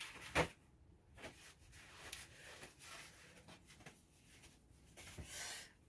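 Faint clicks and taps of small objects being handled, one sharper click just after the start, and a short hissing rustle near the end.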